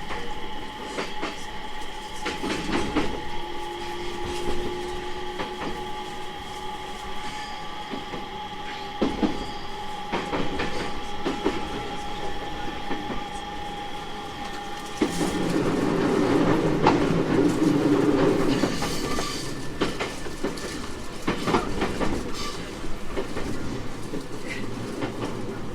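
Onboard running sound of a JR East 701 series 1000 subseries electric train: wheels click over rail joints under a steady electrical whine. The whine stops about fifteen seconds in, and a louder rumble follows for a few seconds.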